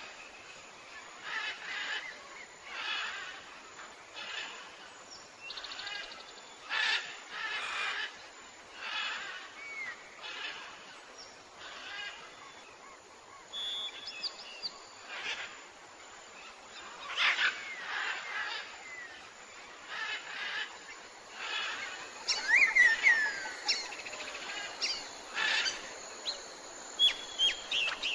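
Birds calling outdoors: short repeated calls about once a second, with thin chirps and whistles joining near the end.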